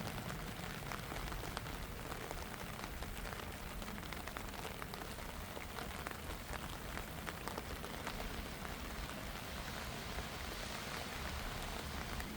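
Steady rain falling, with many separate drops ticking on an umbrella overhead.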